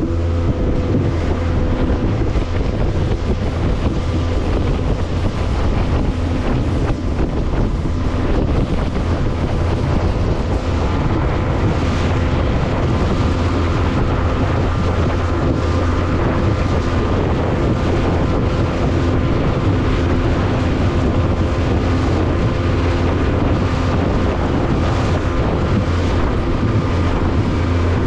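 Motorboat engine running steadily at cruising speed, with wind blowing across the microphone.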